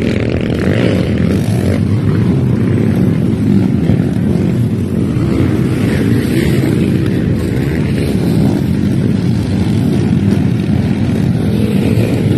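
Motocross dirt bike engines running steadily, a dense low rumble of several bikes together.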